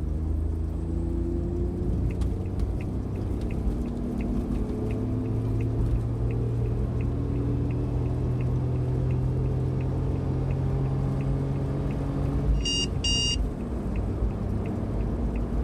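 Cabin sound of a Suzuki Every DA17V kei van under way: the 660 cc three-cylinder engine and road rumble, the engine note rising slowly. From about two seconds in a turn-signal relay ticks about three times a second, and two short electronic beeps sound near the end.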